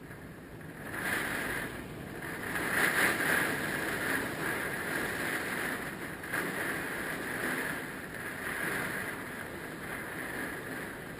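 Hurricane wind blowing in gusts over the lake, rising about a second in, strongest around three seconds, then easing to a steady rush.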